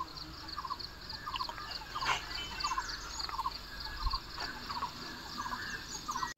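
Animal chirping: a cluster of short chirps repeating about twice a second, with a higher, fast-pulsing chirp running over it and a couple of faint clicks.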